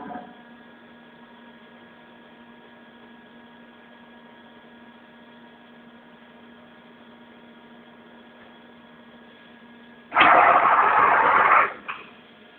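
Matsuura MC-510V vertical machining center powered up and humming steadily with a few fixed tones, then about ten seconds in a loud rushing noise for about a second and a half, followed by a short brief sound.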